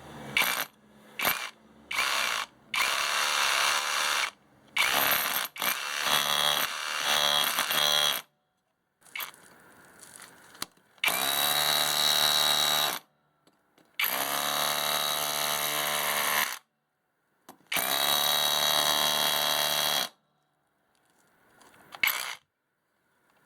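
Abeden BL21RH cordless hammer drill running in trigger-controlled bursts. A few short blips come first, then several runs of two to three seconds each with a steady motor whine, stopping between runs.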